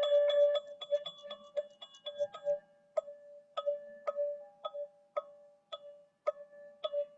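Teal ZenTube, a tuned metal sound-healing instrument, struck over and over and ringing at one clear pitch. The strikes come fast and overlapping at first, then settle into a slower beat of about two a second, with a second, higher note sounding in the second half.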